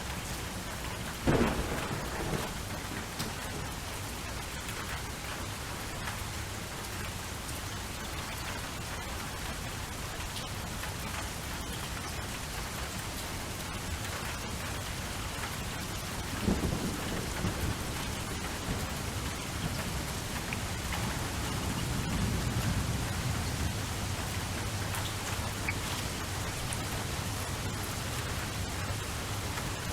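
Steady rain with thunder: a sharp crack about a second in, another a little past the middle, each trailing off in a rumble, and a low rolling rumble later on.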